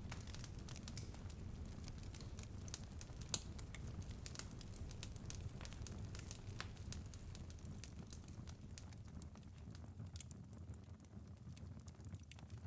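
Wood fire in a fireplace crackling, with many irregular sharp pops over a low steady rumble; the pops grow sparser near the end.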